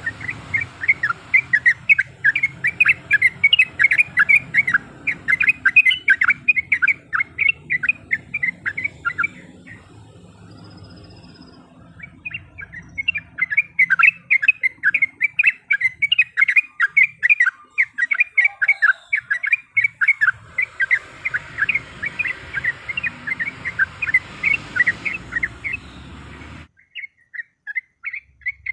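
Yellow-vented bulbul (trucuk) singing long, rapid runs of bubbly chirping notes, two long bursts of song separated by a pause of about three seconds.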